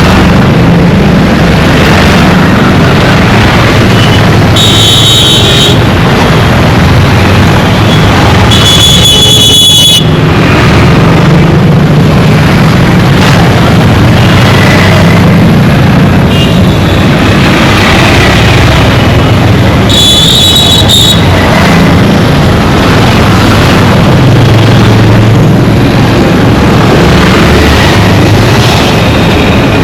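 Dense street traffic, engines and tyres running steadily with a low hum. Three vehicle horn blasts of about a second each stand out: one about five seconds in, one near nine seconds and one near twenty seconds.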